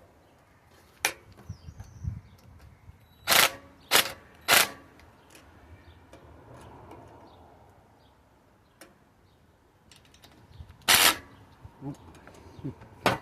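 Cordless drill run in short, sharp bursts, about five of them, tightening bolts on a steel power-rake mower blade.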